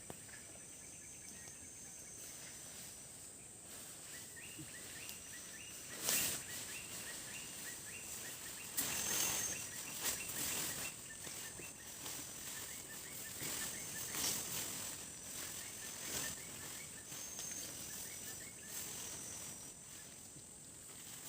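Forest insects buzzing steadily at a high pitch, with a repeated short chirping call coming in about four seconds in, and several brief knocks and rustles from people working on a shelter.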